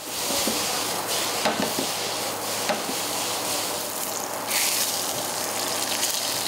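Food sizzling in hot oil in a frying pan: noodles and vegetables being stir-fried, then a slice of meat frying. A few light clicks of the chopsticks against the pan come in the first few seconds.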